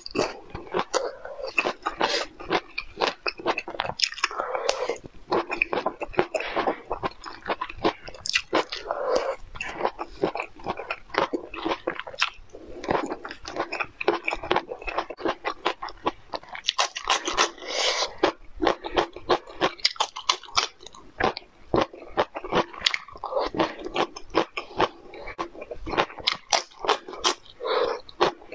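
Close-miked eating: biting into and chewing crunchy food, a dense run of quick crisp crunches and clicks.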